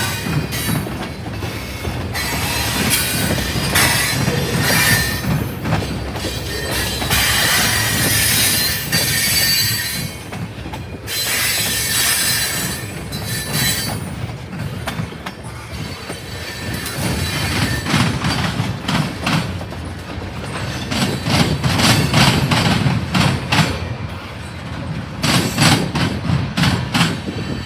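Freight tank cars rolling past on steel rails, wheels squealing and clattering as the end of the train goes by and then moves off. A run of sharp clicks comes near the end.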